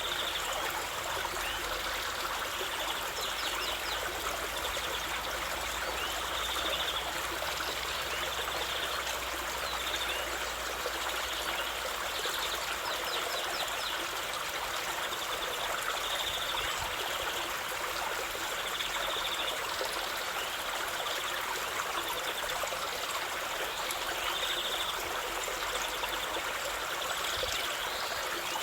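A stream running steadily, an even rushing trickle of flowing water with no pauses.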